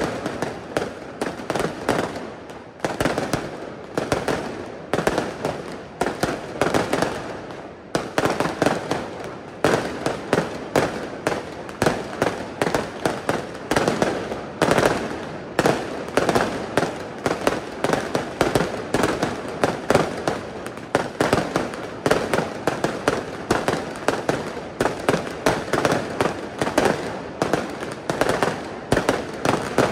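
Aerial fireworks display: a continuous barrage of shell bursts going off several times a second, with a short lull about eight seconds in.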